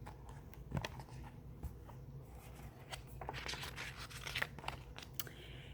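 Pages of a picture book being handled and turned: faint paper rustles and small clicks, busiest a few seconds in.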